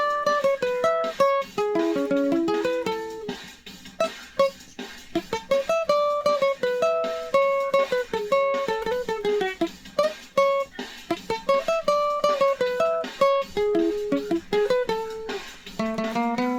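Guitar playing a picked melody of single plucked notes, with no singing.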